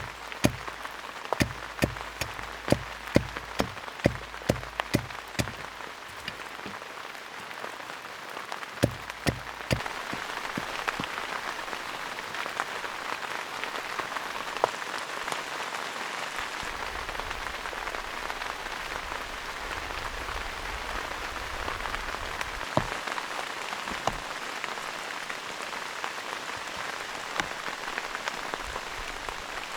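Rain falling. For roughly the first third, heavy drops strike close by as sharp taps, a couple a second; after that a steady, even sound of rain fills the rest.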